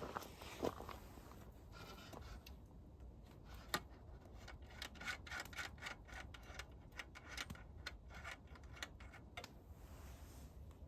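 A busy run of small clicks and scraping, as of things being handled, with one sharper knock about four seconds in.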